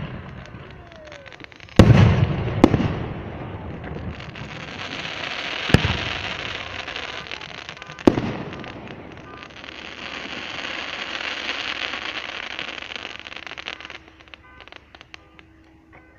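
Fireworks display: aerial shells bursting with several sharp booms, the loudest about two seconds in, then a long crackling hiss that lasts about ten seconds before it dies down near the end.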